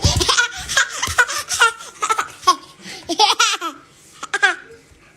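A person laughing hard in rapid, breathy bursts that trail off about four seconds in.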